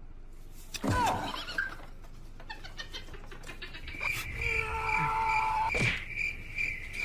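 Animal calls from a pet: a short rising-and-falling call about a second in, then a longer held call from about four seconds. A steady high pulsing tone, about three pulses a second, starts at about four seconds and runs on.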